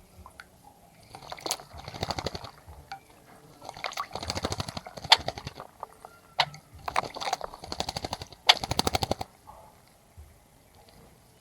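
A small bird bathing in a bird bath, fluttering its wings in the water in four quick bouts of rapid splashing with short pauses between.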